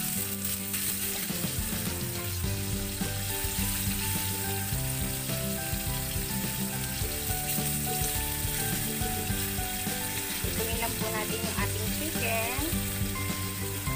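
Chicken and potato pieces sizzling in sauce in a metal wok, stirred and turned with metal tongs. Background music plays steadily underneath.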